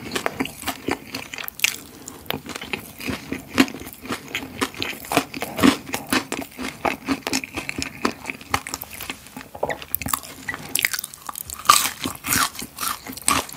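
Close-miked chewing of crispy cereal-coated fried chicken: a dense run of sharp crunches, several a second.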